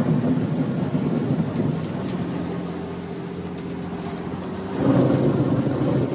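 A motor vehicle's engine running steadily, with a louder rush of noise about five seconds in.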